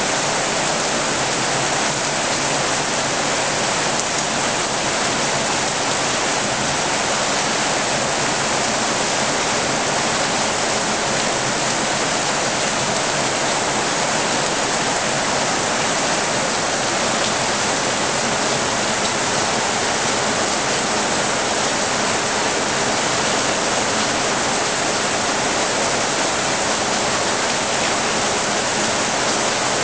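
Heavy rain falling steadily, splashing on wet paving, plants and lawn: a dense, even hiss with no letup.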